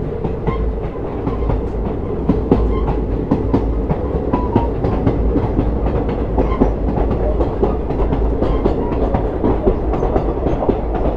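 A train running along the track, its wheels clattering and clicking over the rails above a steady low rumble.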